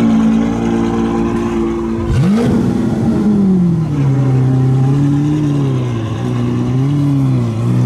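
Supercar engine being revved in place. It holds a raised, steady note, then gives a sharp rev about two seconds in that falls back to a lower idle, with two or three light blips of the throttle near the end.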